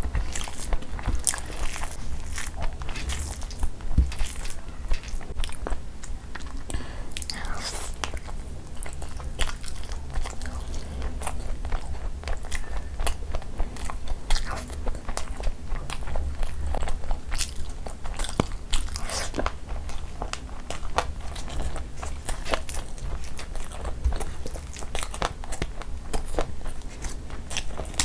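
Close-miked eating: chewing a full mouthful of rice and curry, with many irregular wet mouth clicks and occasional crunches.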